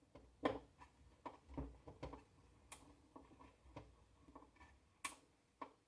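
Irregular small clicks and taps of a screw and screwdriver on the plastic Magic Bullet blender base, with a few sharper clicks among them.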